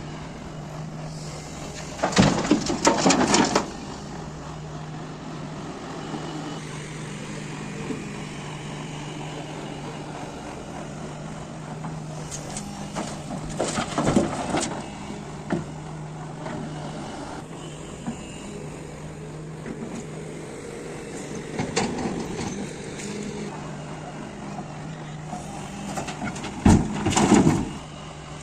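Heavy diesel engine of an excavator loading a dumper running steadily, broken four times by loud crashing clatters as loads of earth and rock are dumped.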